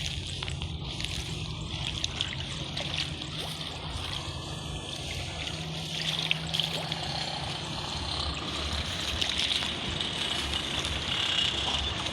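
Shallow water trickling and sloshing, with a steady low hum underneath.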